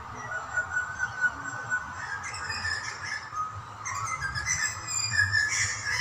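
Birds calling outdoors: thin whistled notes at first, then a busier run of short chirps and whistles from about two seconds in, thickest near the end.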